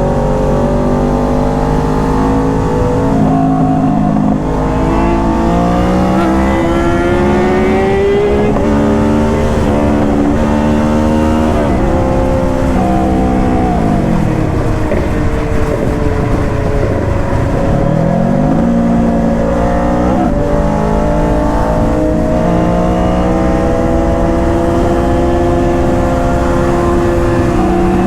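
Sport motorcycle engine heard from an on-board camera while riding, accelerating through the gears: the pitch climbs and drops back with several upshifts, falls away and climbs again around the middle, then holds steadier near the end.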